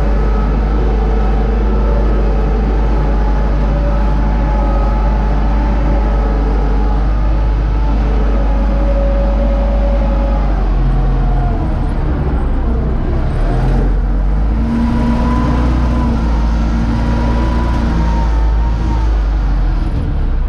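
UTB U650 tractor's diesel engine running steadily under load while pulling a seed drill. Its low drone shifts a little past halfway, with faint whining tones above it.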